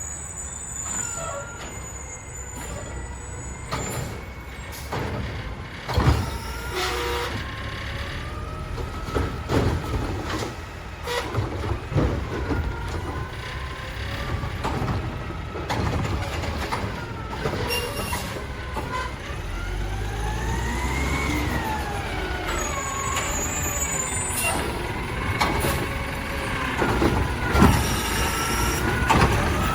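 Mack LR garbage truck with a Heil Durapack Rapid Rail automated side loader at work. A steady running rumble, a whine that rises and falls in pitch, and several sharp knocks.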